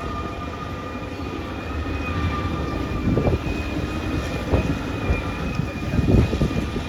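Caterpillar D6R XL bulldozer working: its diesel engine runs steadily with a high whine over it, and irregular clanks from the steel tracks and blade, the loudest about three, four and a half and six seconds in.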